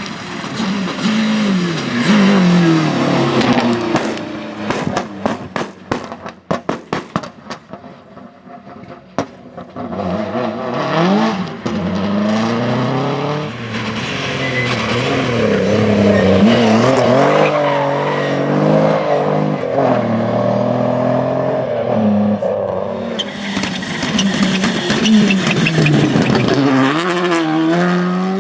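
Rally car engines revving hard, pitch climbing and dropping through gear changes, with a rapid run of sharp cracks and pops about four to nine seconds in, then more hard acceleration and a hissing, scrubbing sound near the end.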